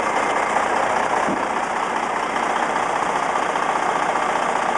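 Western Star dump truck's diesel engine idling steadily.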